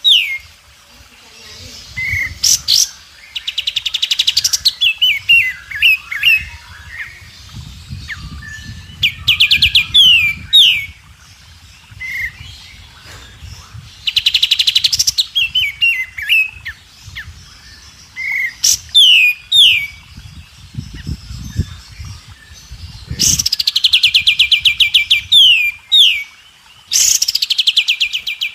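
White-rumped shama (murai batu) singing a repeated phrase: a fast rattling trill followed by two or three quick falling whistles, with shorter chirps and twitters between the phrases.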